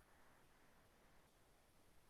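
Near silence: a faint, steady noise floor.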